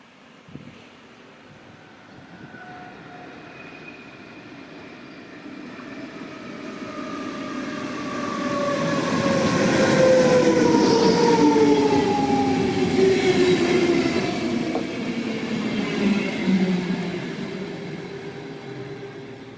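Zürich S-Bahn double-deck train hauled by an SBB Re 450 electric locomotive, running into the station and slowing. Its motor whine falls steadily in pitch, growing louder as the train draws level and fading near the end.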